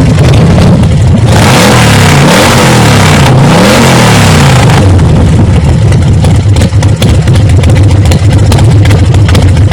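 Motorcycle engine running under way, its pitch dipping and climbing a few times about two to four seconds in as it revs, over heavy wind noise.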